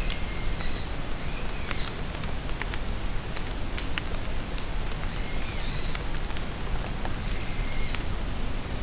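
Steady rain falling in a forest, with drops pattering and ticking, while a songbird sings four short phrases of a few notes each.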